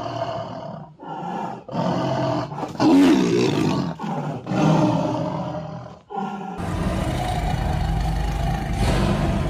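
An animal giving about five pitched, throaty calls one after another with short gaps between them. About two-thirds of the way in they give way to a steady low rumble.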